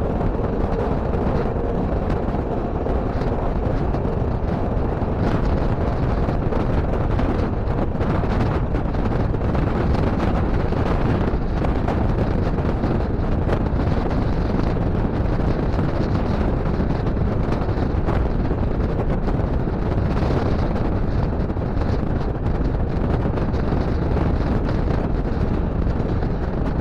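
Passenger train running steadily, a continuous rush of rolling and wind noise with wind buffeting the action camera's microphone.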